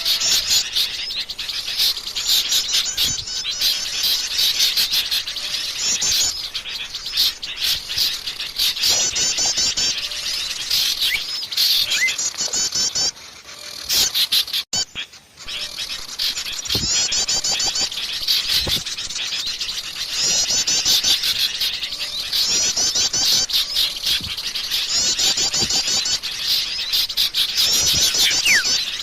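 A dense chorus of small songbirds chattering and calling, with quick trilled phrases repeating over one another: a bird-lure recording of noisy small birds. The chorus dips briefly a little before halfway, then carries on.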